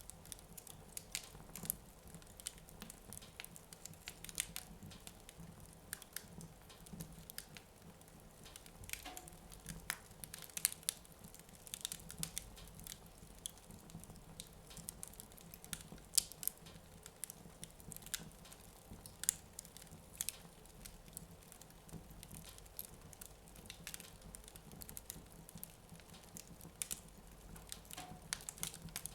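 Wood fire in a fireplace crackling, with frequent irregular sharp pops and snaps over a faint low hum.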